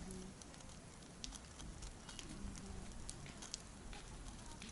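Campfire wood crackling, with irregular sharp pops and snaps over a low, steady hiss of burning.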